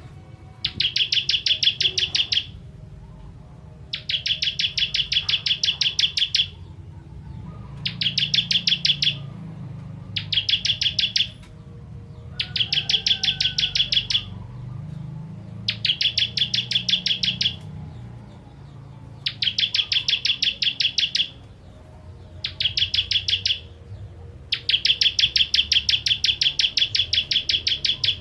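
Ciblek kristal prinia singing: about nine loud bursts of very rapid, evenly repeated chipping notes, each one to two and a half seconds long, coming again every second or two.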